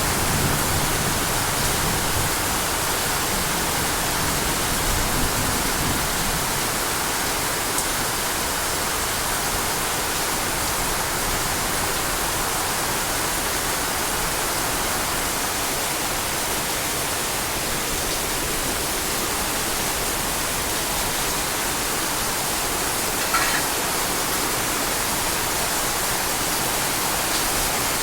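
Steady hiss of heavy rain. A brief click about 23 seconds in.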